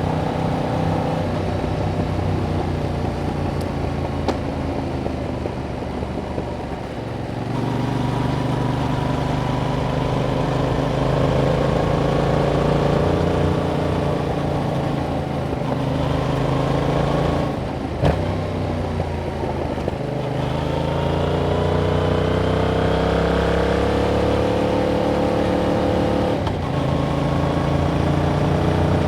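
Yamaha MT-07's 689 cc parallel-twin engine on its stock exhaust, heard onboard while riding. The pitch climbs steadily as the bike pulls through the revs. There is a brief break with a click about two-thirds of the way through, and another drop near the end, like gear changes.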